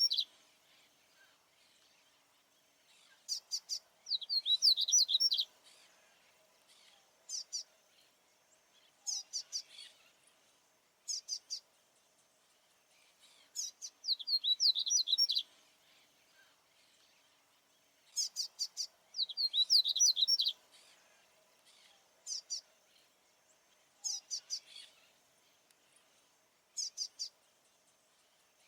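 Papa-capim baianinho seedeater singing: repeated phrases of quick, high, twittering notes, some long and some short, with pauses of a second or two between them. The male is singing to hold his territory.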